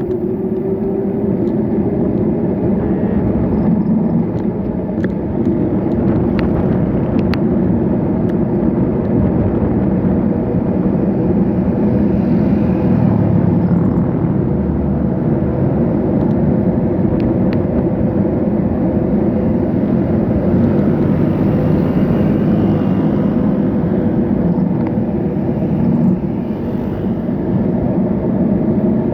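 Continuous low rumble of road noise heard while cycling along a road, with motor traffic around.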